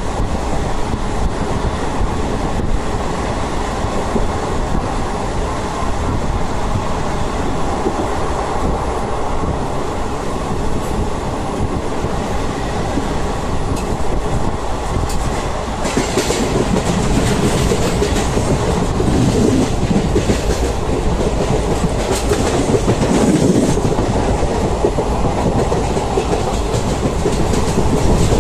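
Passenger train running along the track, heard from on board: a steady rumble of wheels on rail with clickety-clack. From a little past halfway, a brighter hiss with many sharp clicks joins in.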